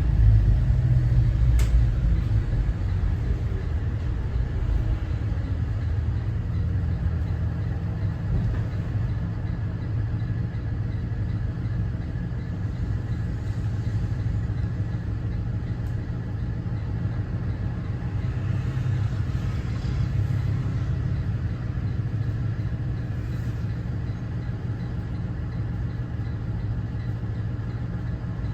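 Cummins ISB 6.7 inline-six turbo-diesel of a 2014 Thomas Saf-T-Liner C2 school bus running under way, a steady low rumble of engine and road, a little louder in the first couple of seconds.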